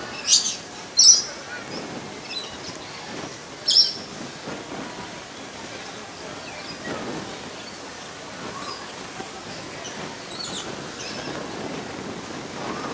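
Rainbow lorikeet calling: three loud, high-pitched calls in the first four seconds, then fainter calls further on.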